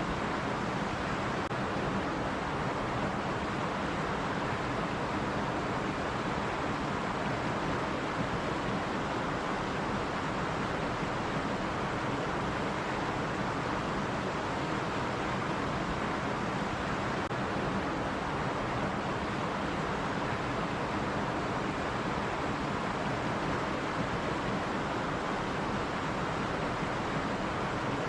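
Stream water running steadily over rocks, an even rushing that never changes.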